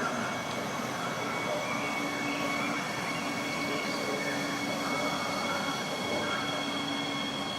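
A train running through the station, a steady rumble with two high, steady whining tones above it.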